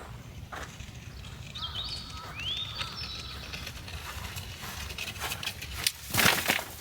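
Outdoor ambience: a bird gives a few short rising whistled calls about two seconds in, among scattered light clicks and rustles, then a loud brief crunching rustle near the end.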